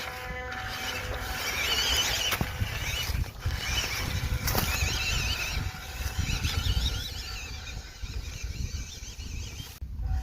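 Small 260 brushed motor and gears of an MN99 1/12 RC crawler whining as it drives, the pitch rising and falling with the throttle, over a low rumble.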